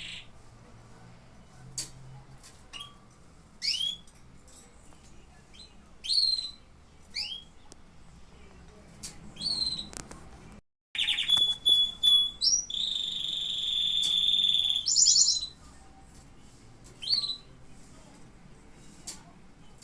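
Domestic canaries calling with short, separate rising chirps. A little past halfway, after a brief drop to silence, a canary sings a loud phrase of about four seconds: quick trills at the start and end around a long held whistled note.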